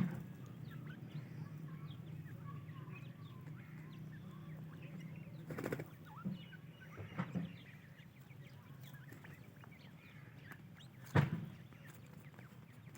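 Francolin chicks peeping, many small cheeps over a low steady hum, with a few sharp knocks about six, seven and eleven seconds in.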